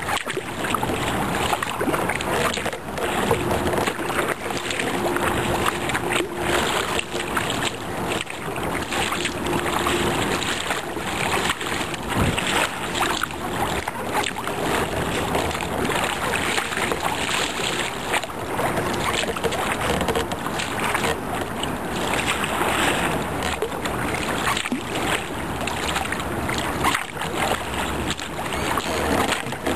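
Fast, turbulent river current rushing and splashing around a sea kayak, with wind buffeting the microphone.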